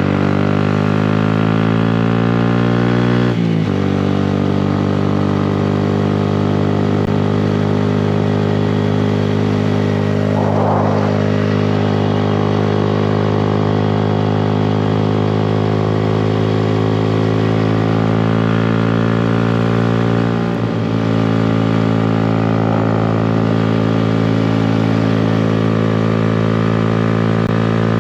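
2018 Honda Grom's single-cylinder 125 cc engine through a Yoshimura exhaust, revving up and shifting gear about three and a half seconds in, then holding a steady cruising note, with another quick shift about twenty seconds in.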